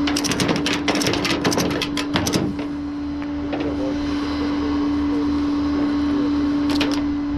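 Tie-down ratchet strap being cranked tight: a quick series of clicks through the first two and a half seconds and again briefly near the end, over the steady hum of the running tow truck engine.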